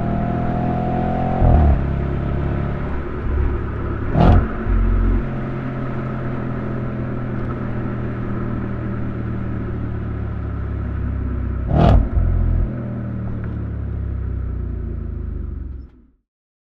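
2013 Audi RS5's 4.2-litre V8 running while the car is driven, rising in pitch as it accelerates in the first second and a half, then holding steady. Two sharp cracks come about four and twelve seconds in, each followed by a brief louder thump, and the sound stops abruptly near the end.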